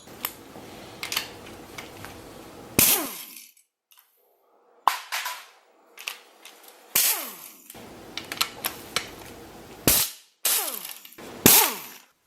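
About a dozen sharp knocks and clanks of tools striking metal, in separate bursts, some with a short ringing tail, with brief silent gaps between, as work starts on splitting the engine's crankcase.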